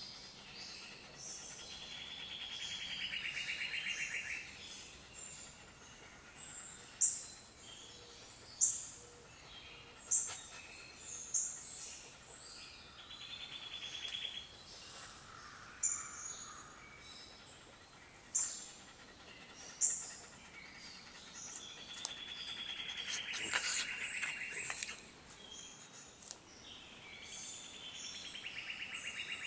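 Wild birds singing: one bird repeats a rapid trill lasting two to three seconds, four times, while another gives short, sharp calls about every second and a half through the middle stretch.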